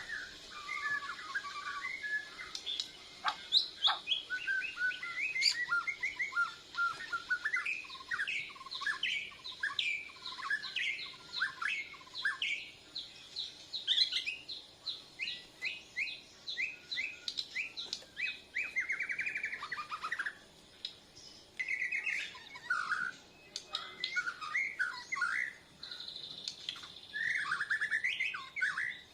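A Bornean shama (murai batu Borneo) singing a long, varied run of quick whistled and trilled phrases with only brief pauses: a young bird practising its full song.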